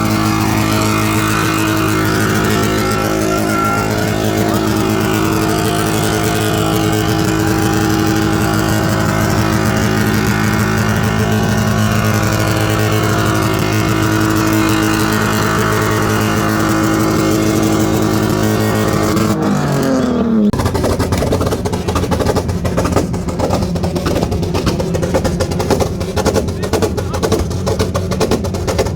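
Car engine held at steady high revs, then the revs fall away about two-thirds of the way through, followed by a rougher, rapid pulsing.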